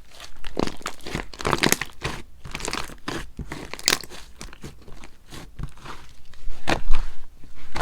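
Hands squishing and pressing a sherbet slime, giving irregular crunchy, crinkly crackles, loudest about two seconds in, around four seconds and again near the end.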